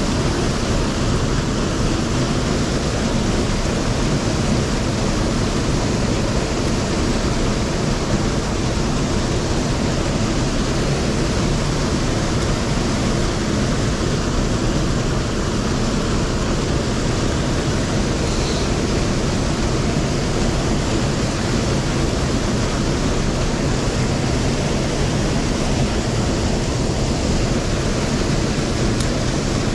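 Steady rushing of stream water flowing over rocks, an even noise that keeps the same level throughout.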